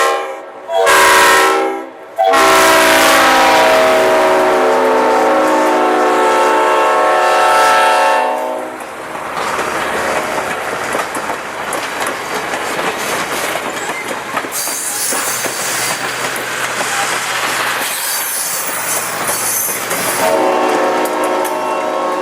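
Diesel locomotive air horn sounding a chord of several notes: a short blast about a second in, then a long blast of about six seconds. The train then rolls past with wheels clattering over the rail joints, and the horn sounds again near the end.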